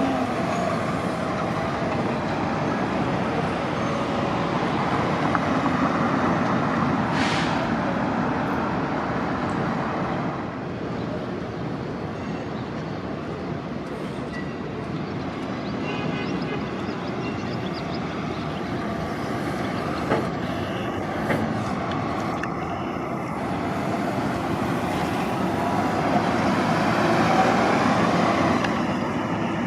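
City transit buses running and pulling through the terminal, a steady engine and road noise that swells and fades as buses pass, with a short hiss about seven seconds in and a couple of brief clicks near two-thirds of the way.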